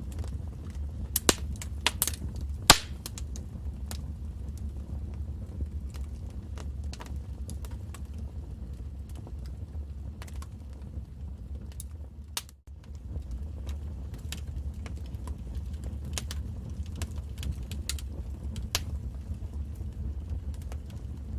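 Wood fire burning in a fireplace, crackling, with a steady low rumble of the flames under irregular sharp pops. The loudest pops come in the first few seconds. The sound drops out briefly about halfway through.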